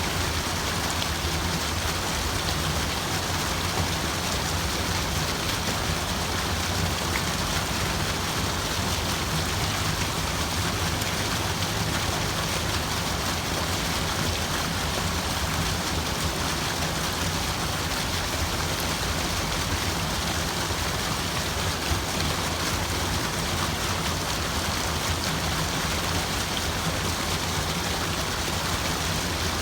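Steady, unbroken sound of rushing water, an even hiss with no distinct drops or breaks.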